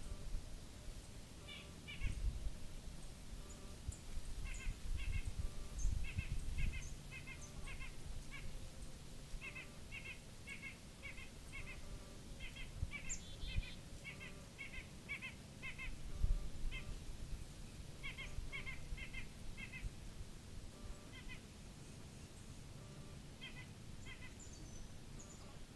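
A bird chirping over and over in quick runs of short, high notes, about four a second, with pauses between the runs. Under it a low rumble swells now and then, loudest about two, six and sixteen seconds in.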